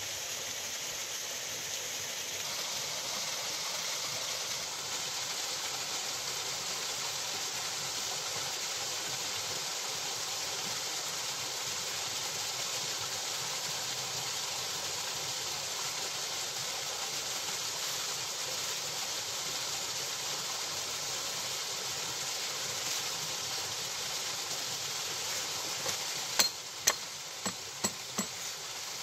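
Waterfall water rushing steadily over rocks. Near the end come about five sharp knocks in quick succession.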